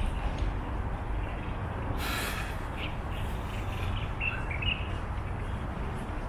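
Birds chirping a few short times between about three and five seconds in, after a brief harsh rasp about two seconds in, over a steady low background rumble.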